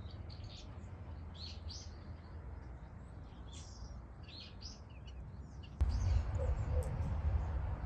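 Small birds chirping in the background, short high calls scattered through the first six seconds. About six seconds in, a low rumble sets in.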